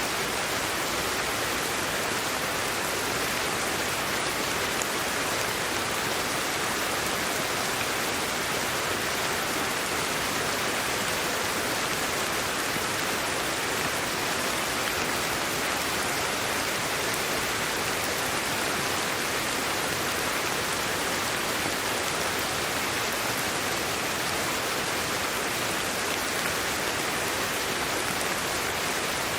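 Steady sleep-aid white noise: an even, unchanging hiss, brightest in the upper range and thin in the bass.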